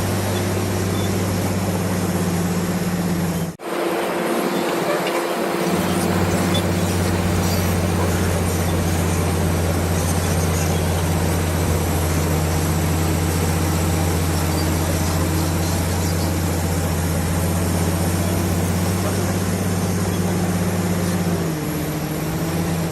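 Komatsu D65PX bulldozer's diesel engine running steadily with a low, even hum. It breaks off abruptly for an instant a few seconds in, and the deep part of the hum is missing for about two seconds before it returns. The engine note dips slightly near the end.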